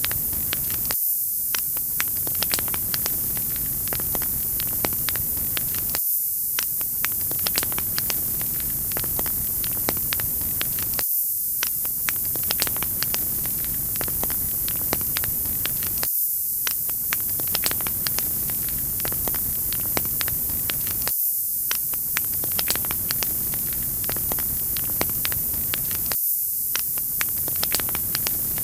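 Wood fire crackling, with many small sharp pops over a steady hiss. The same few-second stretch of recording repeats about every five seconds.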